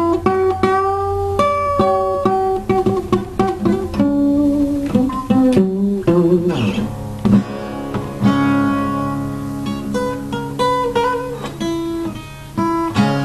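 Acoustic guitar played solo, a run of plucked notes and strummed chords ringing out, a little softer near the end.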